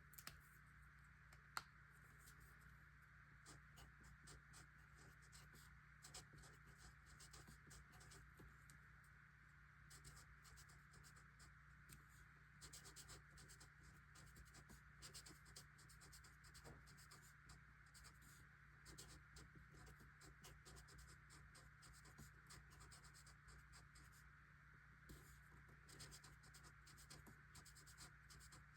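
Faint scratching of a pen writing on paper, in short irregular strokes, over a steady background hum. There is one sharp click about two seconds in.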